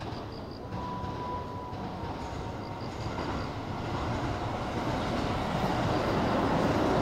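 Keio 8000 series electric commuter train approaching and running through the station without stopping: the rumble of its wheels on the rails grows steadily louder as it nears. A steady high tone sounds for about two seconds, starting about a second in.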